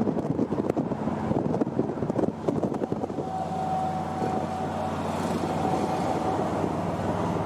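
Car engine running steadily at low speed, with wind and rustle on the microphone for the first few seconds.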